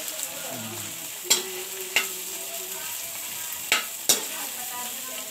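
Garlic butter shrimp sizzling in a pan with a steady hiss while being stirred; a utensil clicks sharply against the pan four times.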